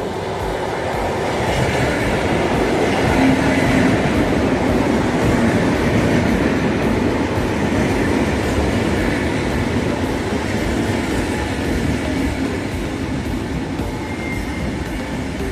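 A train passing on the rails: the running noise of its wheels on the track builds over the first few seconds, then slowly fades.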